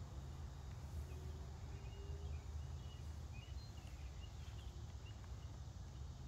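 A scattering of short, high bird chirps over a steady low outdoor rumble.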